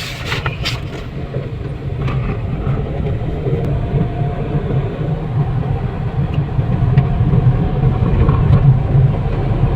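Third-generation Toyota Vios being driven on a road test, its engine and road noise a steady low rumble that slowly grows louder.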